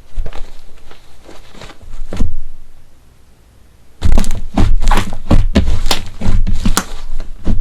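Slime being squeezed and pressed by hand, with soft squishes and clicks. A brief lull about three seconds in, then louder, rapid crackling and popping with low thuds.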